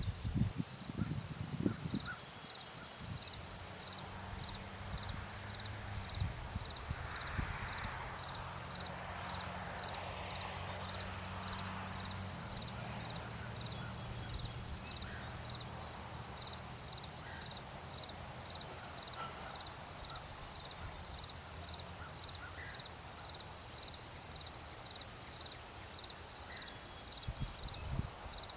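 A chorus of insects chirping: a steady, fast-pulsing, high-pitched trill that never stops, with a faint low hum underneath for the first part.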